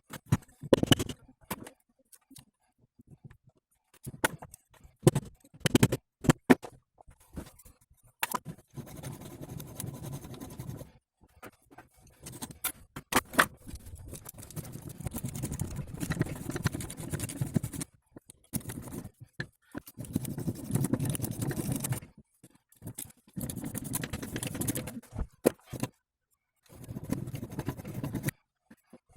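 Hand work on a driveshaft's universal joint: sharp clicks and knocks of metal tools, then repeated stretches of scraping, each a few seconds long, with short pauses between.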